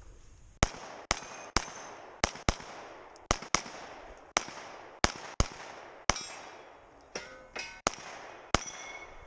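Pistol shots fired rapidly through a competition stage, about fifteen in all, often in quick pairs, with the ring of struck steel targets after some of them.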